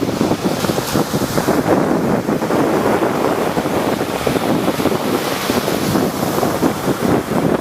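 Rough sea waves surging and breaking, with strong wind buffeting the microphone.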